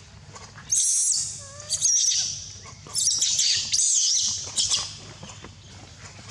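A young monkey squealing with high, shrill calls in two bouts, the first about a second in and the second about three seconds in.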